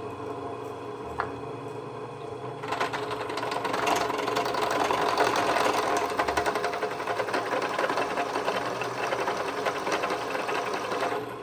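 Drill press running with a step bit cutting into a steel horseshoe to counterbore a screw hole. A steady motor hum comes first, then about three seconds in a dense chattering grind of the bit in the metal, which stops just before the end.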